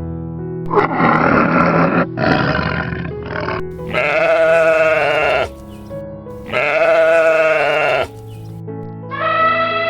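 About six bleats in a row, some short and some long and wavering, over steady background music.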